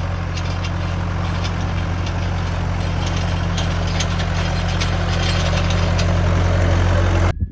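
Tractor engine running steadily while plowing, a low even drone with faint clicking over it, growing slightly louder before it cuts off suddenly near the end.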